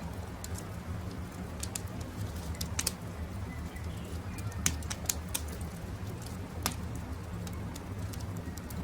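Campfire crackling, with scattered sharp pops over a low steady rumble; the loudest pop comes about halfway through. Birds call faintly in the background.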